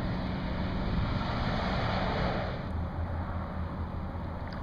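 Highway traffic climbing a long freeway grade: a passing vehicle's tyre and engine noise swells and fades about two seconds in, over a low engine drone and wind.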